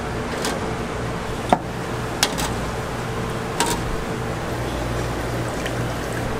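Steady hiss of a working kitchen under a low machine hum, broken by a few sharp clicks of utensils about a second and a half, two seconds and three and a half seconds in.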